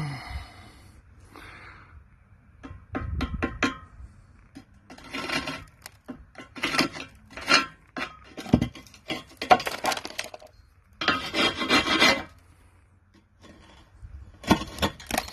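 A hand tool scraping and rubbing rust off a cast-iron stove hob casting in bursts of strokes with short pauses between them, and a few sharp taps near the start and end.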